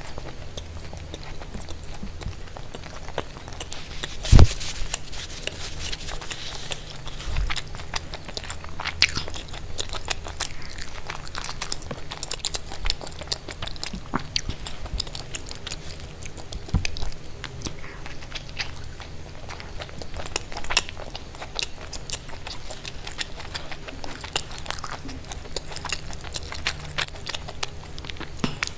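Close-miked eating: crunchy bites and steady chewing, with many irregular crackling clicks. One sharp, much louder thump about four seconds in.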